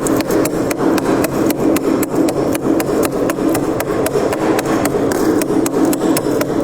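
Freezer frost crunching: a dense, steady rasp broken by sharp crackles several times a second.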